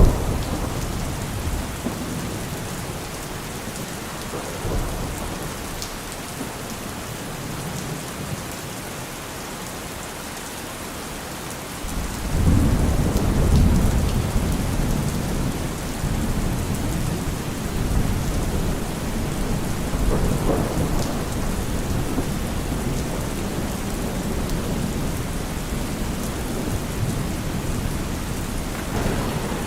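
Steady rain, with a low rumble of thunder that swells suddenly about twelve seconds in and then lingers and rolls on.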